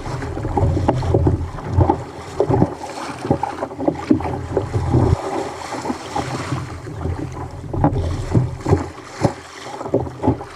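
Rough sea water slapping and splashing against a fishing kayak's hull, with wind buffeting the microphone and many short sharp knocks throughout.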